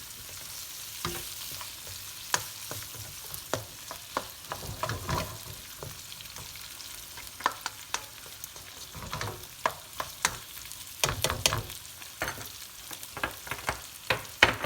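Shrimp, garlic and sun-dried tomatoes sizzling in hot olive oil in a pan, with irregular clicks and scrapes of a utensil stirring against the pan. There are quick runs of knocks a few times, most near the end.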